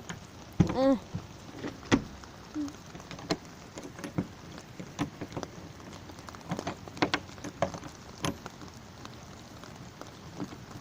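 Steady rainfall with irregular sharp taps spread throughout, and a brief voice in the first second.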